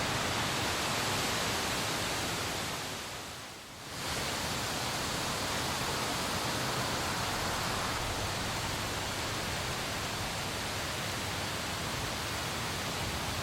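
Steady rain, a dense even hiss. About three seconds in it fades down briefly, then comes back at the same level.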